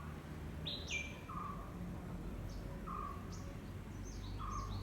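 Several birds singing. One repeats a short low note about every second and a half, and others add higher chirps between.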